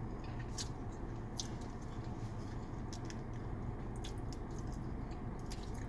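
Close-up chewing and mouth noises from eating a burrito: a scatter of small wet clicks and smacks over a steady low hum.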